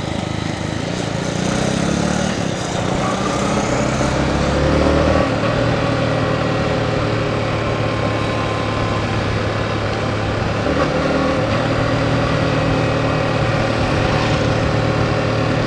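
Yamaha MT-15's single-cylinder engine running under way, its pitch rising over the first few seconds, dropping sharply about five seconds in, then holding fairly steady.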